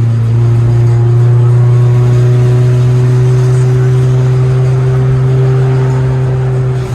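Car engine droning at a steady speed, one even low note held without change.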